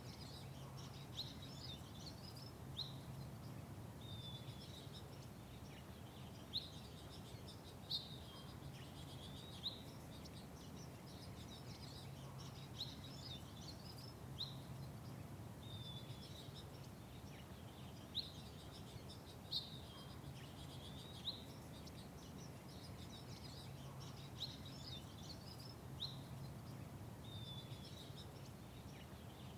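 Small songbirds chirping: short, sharp chirps and brief downslurred notes repeated every second or so, over a faint, steady low background hum.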